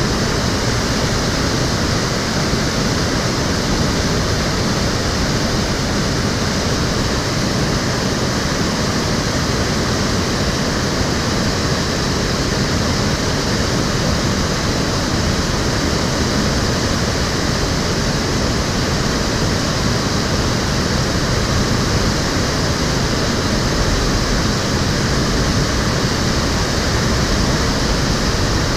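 Water of the Cheonggyecheon stream flowing and splashing, a steady full rushing noise that holds even throughout.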